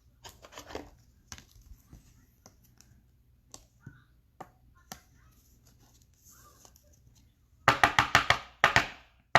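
Trading cards and packaging handled on a tabletop: light rustling and scattered soft clicks, then near the end a quick run of loud, sharp taps.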